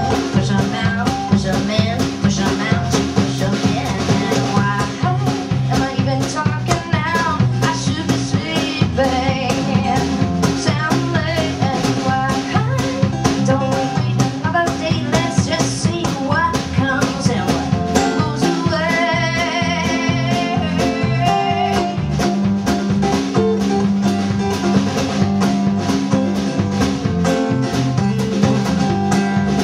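Live band playing an instrumental break of a blues-rock song: a wavering guitar lead over bass and a steady drum beat.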